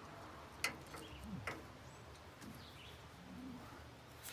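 A few sharp clicks: the loudest about half a second in, another about a second later, and one near the end. They sit over faint bird chirps and a low steady hum.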